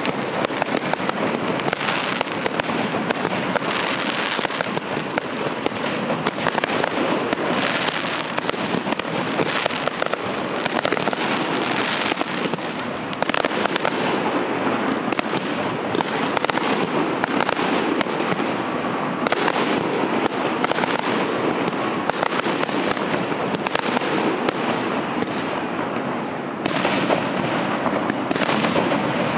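Aerial fireworks shells bursting in a dense, continuous barrage, bang after bang with no pause.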